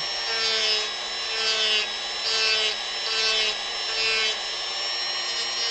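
Dremel rotary tool sanding a carved wooden piece in repeated strokes, about one a second, over the steady high whine of its motor.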